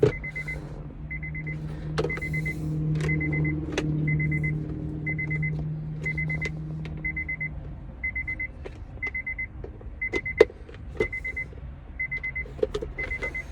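A short, high electronic beep repeats about once a second, with scattered sharp clicks and knocks from tools working on the console parts. A low steady hum runs under it until about eight seconds in.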